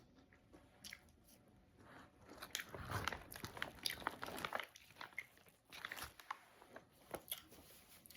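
Close-up eating sounds: a person biting and chewing food, with small crunches and wet mouth clicks, busiest from a few seconds in.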